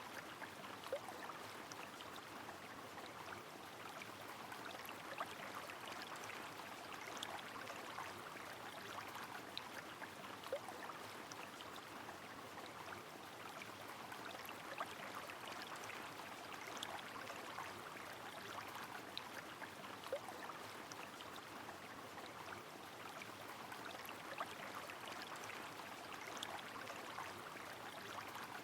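Steady rush of a flowing river mixed with falling rain, with scattered faint drip ticks.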